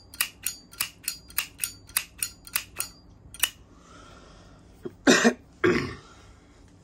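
Zippo lighter's metal lid flicked open and snapped shut over and over, quick sharp clicks about five a second for some three seconds, then one more click. A little later, two loud coughs half a second apart.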